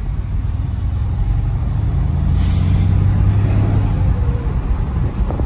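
In-cabin sound of a 2020 Mercedes-AMG GLC63 S's twin-turbo 4.0-litre V8, with catless downpipes, pulling the car along in Comfort mode: a low drone that swells over the first few seconds, with a brief hiss about two and a half seconds in.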